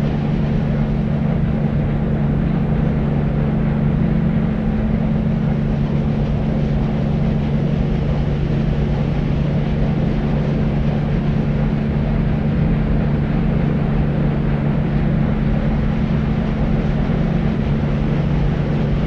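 Deep white noise: a steady, unbroken low rushing hiss weighted toward the bass, with a constant low hum in it and little treble.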